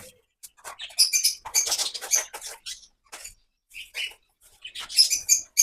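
Pet parrots chirping and squawking in short, high-pitched bursts: a flurry about a second in and another near the end.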